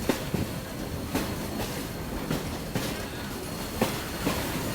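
Passenger railcar rolling along the track, heard from on board: a steady rumble with irregular sharp clacks as the wheels cross rail joints.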